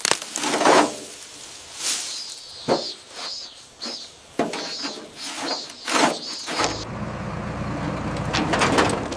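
A series of separate metallic clanks, scrapes and squeaks, then about two-thirds of the way in a vehicle engine starts and runs steadily as a low rumble, with more clatter over it.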